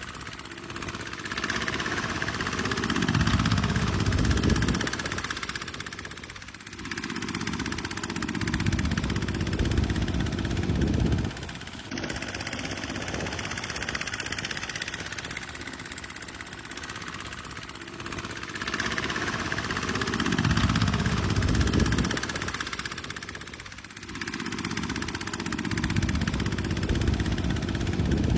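Tractor diesel engine working in a muddy field, its sound swelling and easing in surges every few seconds as the load changes.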